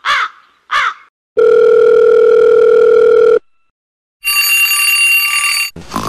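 Phone call sound effect: a steady calling tone for about two seconds, then after a short pause a smartphone ringtone ringing. It opens with a few short squeaky chirps.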